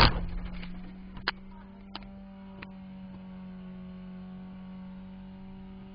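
A sharp knock, then a steady low electrical-sounding hum, with a few single clicks in the first three seconds.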